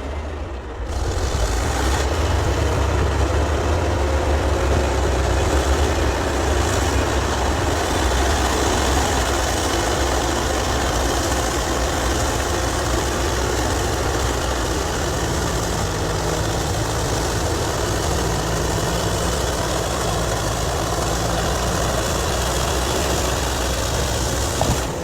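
Heavy diesel engine of mining machinery running steadily, a deep low rumble that holds an even pace throughout.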